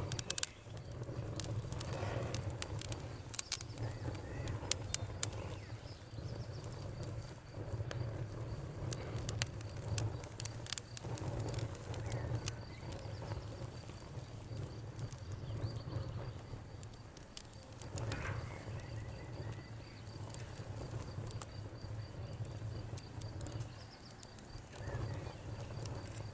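Wood campfire crackling, with frequent sharp pops over a low steady rumble of burning. A cricket chirps in a fast, even high trill in the background through the second half.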